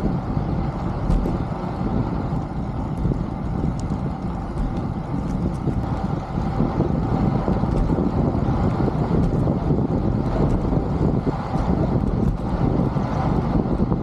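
Steady wind rushing over the microphone while riding a bicycle, a low, even buffeting with a few faint ticks.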